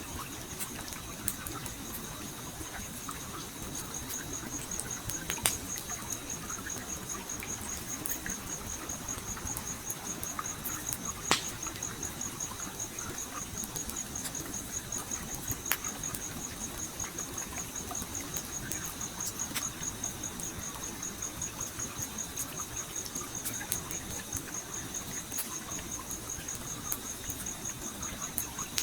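Campfire crackling with scattered sharp pops, the loudest about five and eleven seconds in, over the even rush of a gently flowing stream. A steady, high, fast-pulsing insect trill runs throughout.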